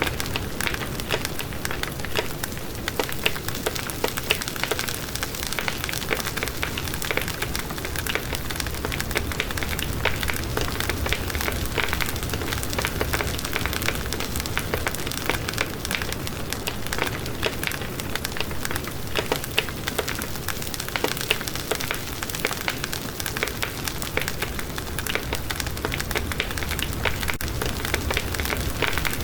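Wood fire burning in a fireplace, crackling steadily with a constant stream of small pops and snaps over a soft hiss.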